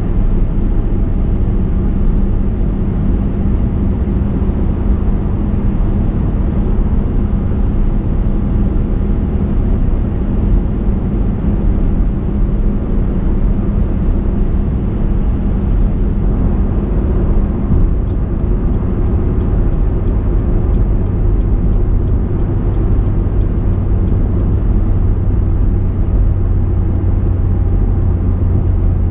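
Steady road and engine noise from a car driving along. A low drone drops to a lower pitch a little past halfway. Soon after, a run of quick, even ticks, about three a second, lasts some six seconds.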